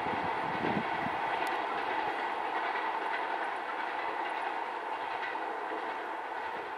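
Passenger train coaches rolling away along the track: a steady rumble and hiss of steel wheels on rails, with a few knocks at rail joints about a second in, slowly fading as the tail of the train recedes.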